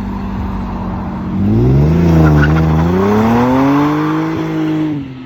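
Car engine revving hard: its pitch holds, climbs about a second and a half in, dips briefly, climbs again and then falls away near the end.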